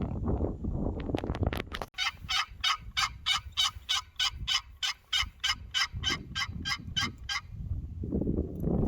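Turkey yelping: an even series of about twenty short notes, roughly four a second, lasting about five seconds. Low wind rumble on the microphone comes before and after.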